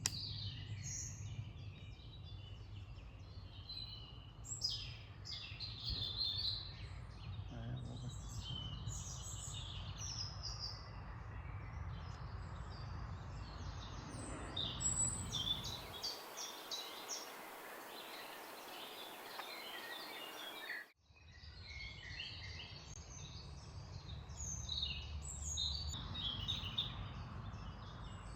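Several small birds singing and chirping over a low steady background rumble. The background changes abruptly about 16 seconds in and again about 21 seconds in, with a brief drop to near silence.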